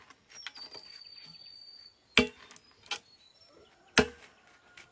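Three sharp chopping strokes, roughly a second apart, of a blade striking wood. A faint, steady, high-pitched tone sounds for about a second and a half near the start.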